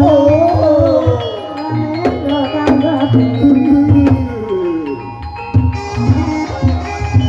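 Javanese gamelan music accompanying an ebeg dance: ringing metallophone notes over repeated low kendang drum strokes, with a wavering melodic line that slides slowly downward over the first four seconds.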